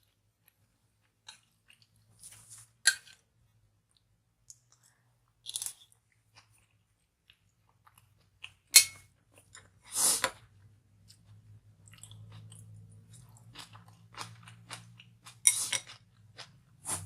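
A person chewing food close to the microphone, with intermittent wet mouth clicks and smacks and a few sharper crunches.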